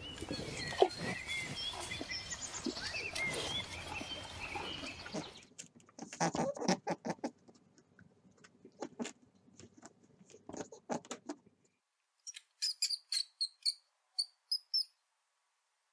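Underwater noise, a dense hiss with scattered high chirps, cuts off about five seconds in. Next comes a rabbit chewing a plant stem, a quick series of crisp crunches. After a short pause a hamster gives about ten short, high squeaks in small groups.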